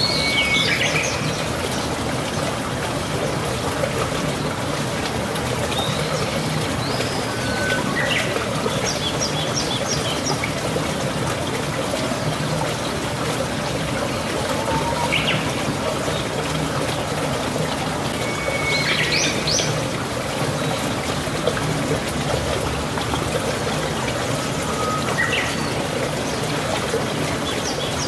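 Small birds chirping in short calls every few seconds, one quick run of several chirps, over a steady, even hiss of background noise.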